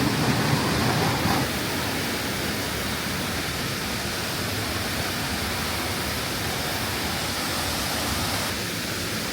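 Waterfall rushing: a steady, even roar of falling water that drops a little in level about a second and a half in.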